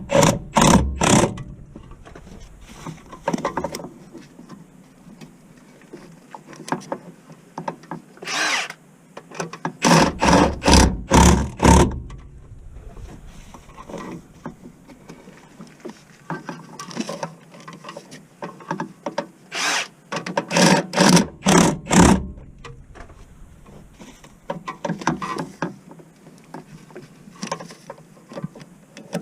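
Tools at work on a car during a clutch job, heard as clusters of short sharp bursts with quieter gaps between.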